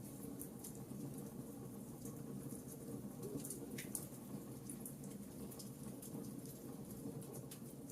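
Campfire burning: a soft steady rush of flames with irregular small crackles and occasional sharper pops from the burning wood.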